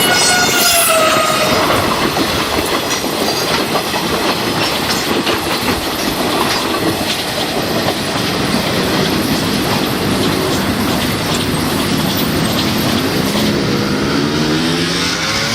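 A train passing close: the tail of a horn falls in pitch in the first second or so, then comes the steady rumble and clickety-clack of wheels over the rail joints. Near the end a rising tone comes in.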